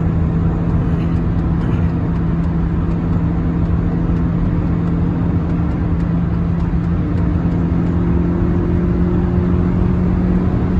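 Hyundai Solaris 1.4-litre four-cylinder petrol engine droning at highway speed under load, heard inside the cabin over heavy road and wind rush. The drone holds steady and creeps up slightly in pitch over the last few seconds as the revs climb.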